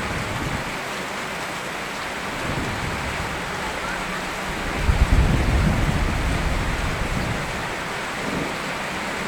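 Steady rain falling, with a low roll of thunder about five seconds in that rumbles for a couple of seconds and fades back under the rain.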